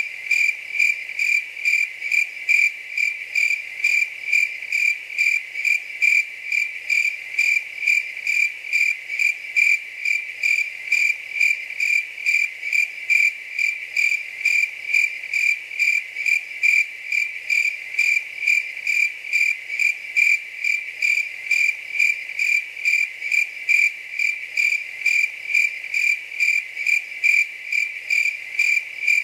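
A cricket chirping in a steady, even rhythm of about two high chirps a second.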